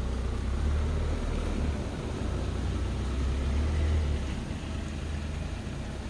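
Steady rain falling, with wind gusting and rumbling on the microphone, swelling about a second in and again around three to four seconds in.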